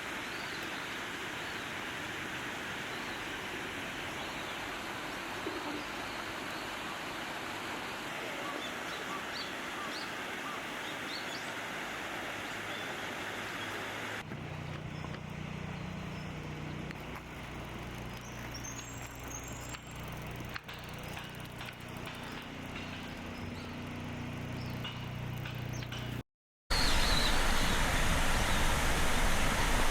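Outdoor ambience: a steady wash of background noise with faint, scattered chirps of small birds. About halfway through the sound changes to a low steady hum with a few high chirps. Near the end, after a brief dropout, a louder wash of noise takes over.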